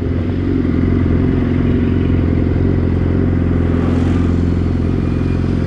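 Sport motorcycle engine running at a steady speed, with an even, unbroken note.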